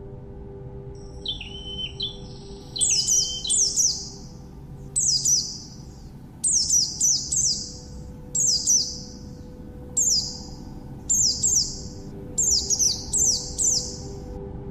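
A songbird calling in short clusters of two to four quick, high, down-slurred notes, repeated about once a second, after an opening steadier whistled phrase. Underneath is a low, steady drone of ambient music.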